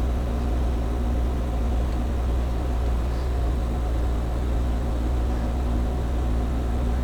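Steady low machine hum in a machine shop, unchanging throughout, with a few faint steady tones above it.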